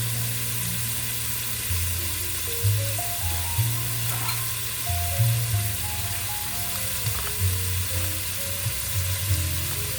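Chicken frying in butter in a pan: a steady sizzle throughout. Background music with a bass line and melody plays over it.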